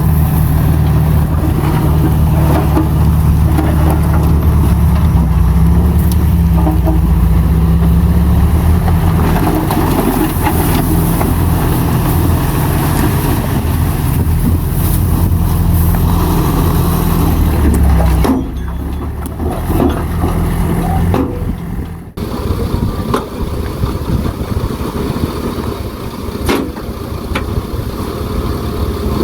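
Heavy diesel engine of earthmoving machinery running hard with a steady low drone, which drops off suddenly about two-thirds of the way through and carries on more quietly.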